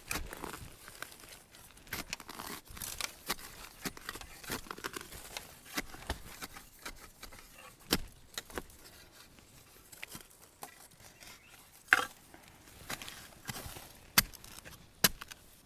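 Rustling and crackling of dry leaves and bamboo litter underfoot and by hand, with several sharp snaps and cracks, the loudest in the second half.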